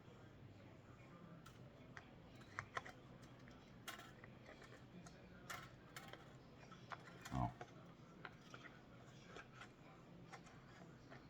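Faint, scattered clicks and taps of small parts and tools being handled during guitar pickup installation, with one louder knock about seven seconds in.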